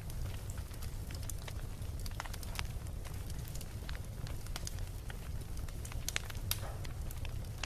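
Beach bonfire crackling, with many sharp pops and snaps scattered irregularly over a steady low rumble.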